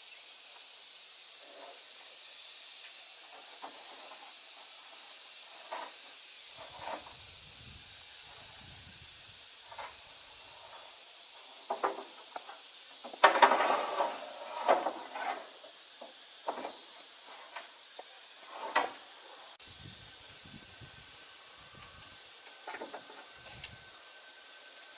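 Scattered short knocks and clatters, with a dense, louder run of them about halfway through, over a steady high-pitched hiss.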